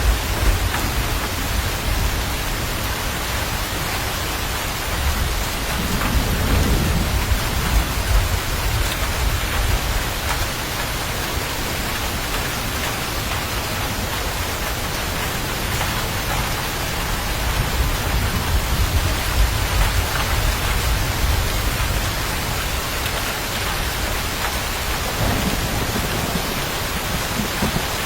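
Steady heavy rain falling on a surface, with low rolling thunder rumbling twice, about a quarter of the way in and again near the end.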